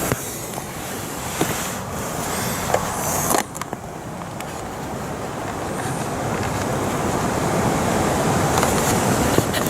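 Rain falling on a tarp shelter overhead: a dense, steady hiss of drops, growing a little heavier in the second half, with occasional sharper taps of larger drops.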